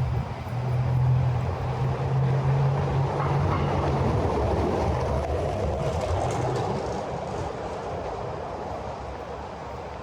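A heavy vehicle passing close by. A low steady engine hum runs through the first four seconds, then the noise of its passing fades away over the last few seconds.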